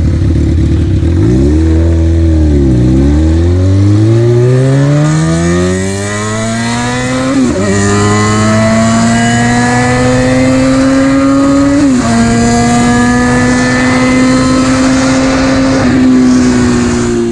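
Suzuki GSX-R sport bike's inline-four engine with a loud aftermarket exhaust, accelerating hard. Its pitch dips and rises near the start, then climbs through the gears, dropping at upshifts about seven and a half, twelve and sixteen seconds in, with wind hiss over it.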